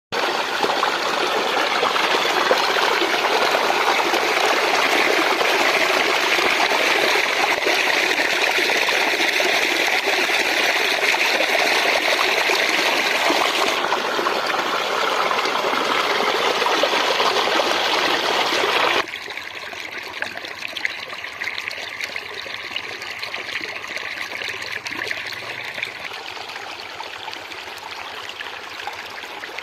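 Water flowing with a steady rushing sound. About nineteen seconds in it changes abruptly to a quieter, softer flow.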